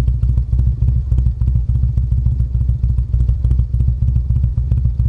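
2011 Harley-Davidson FLHXSE2's V-twin running through a Vance & Hines exhaust, idling steadily with an even, loud, pulsing note.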